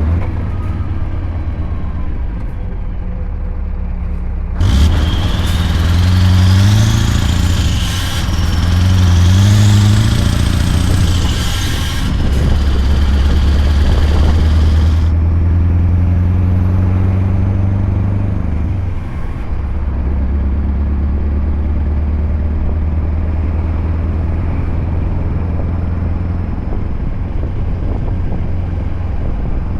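Scania R580 V8 diesel with a straight-piped 8-inch exhaust running under load, its revs climbing twice and then settling to a steady run. From about five seconds in to about fifteen, a loud hiss with a high whistle that rises and falls rides over the engine. The engine note dips briefly about two-thirds of the way through.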